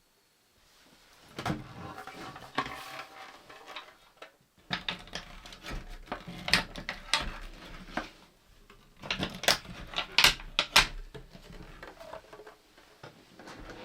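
Irregular light knocks, clicks and rustling of small objects being handled in a cramped space, like dishes, utensils or containers being moved. The clatter grows busier after about five seconds, with a cluster of sharper clicks around nine to eleven seconds.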